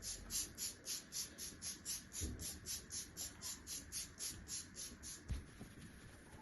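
Quick, even back-and-forth scrubbing strokes, about four a second, easing off near the end, with a couple of soft low thumps.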